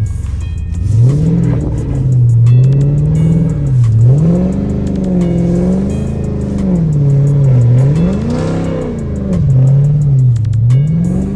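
Dodge Charger's engine revving up and down over and over, its pitch swelling and falling every second or two, as the driver works the throttle to slide the car on snow.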